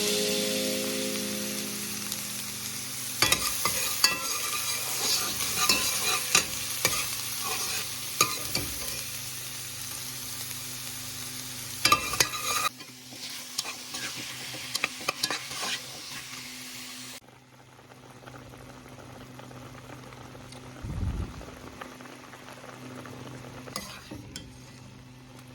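Food frying in hot oil with a steady sizzle, and a utensil now and then clicking and scraping in the pan. About halfway through, the sizzle drops and turns fainter.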